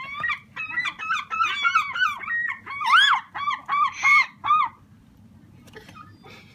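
Several gulls calling at once: loud overlapping squawks and quick repeated calls for nearly five seconds, then stopping. This is the noisy squabbling of hungry gulls being hand-fed and competing for food.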